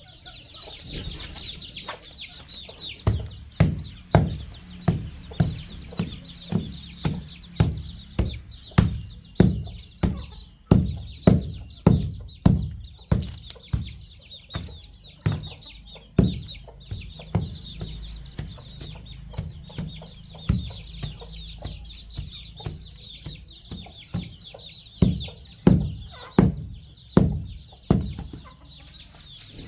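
Baby chicks peeping without pause and young chickens clucking while they feed on termites. Sharp knocks of pecking close by come in runs of about one to two a second.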